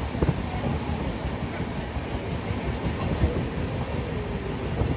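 Pallavan Express passenger train running on the rails, heard from on board: a steady rumble of the wheels on the track, with irregular knocks and rattles.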